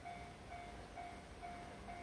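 Railway level-crossing warning bell ringing faintly at about two strokes a second, the signal that a train is approaching.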